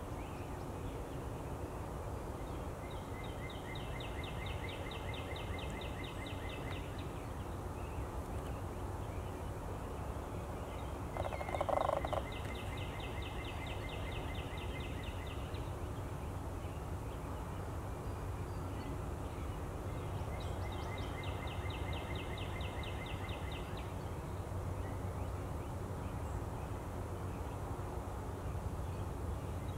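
Outdoor birdsong: a dry trill of rapid notes lasting three to four seconds, repeated about every eight seconds. About eleven seconds in comes a louder, lower rattling call lasting about a second. A steady low rumble lies underneath.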